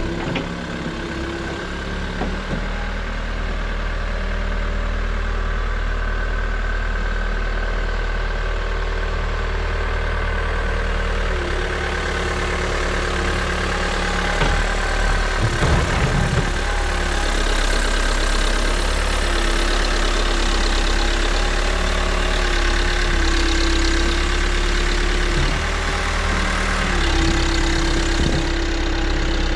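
New Holland backhoe loader's diesel engine running steadily near idle, with a brief clatter about halfway through.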